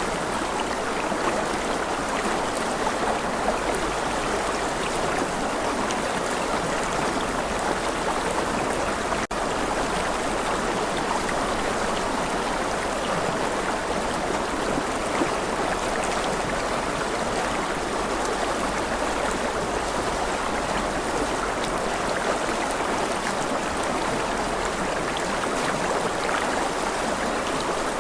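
Steady rushing of a flowing stream, an even wash of water noise, with a brief dropout about nine seconds in.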